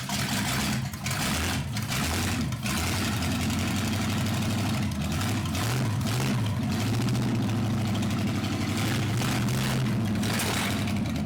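Small-block Chevy 350 V8, freshly revived after sitting for 15 years, catching and running on a mismatched spread-bore four-barrel carburetor. It pops a few times in the first few seconds, then runs steadily, the revs rising and falling briefly around the middle.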